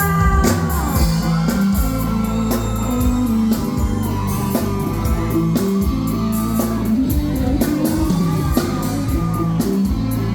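Live rock band playing a Thai pop song: drums keeping a steady beat under sustained bass notes, with a guitar or vocal melody line gliding over the top.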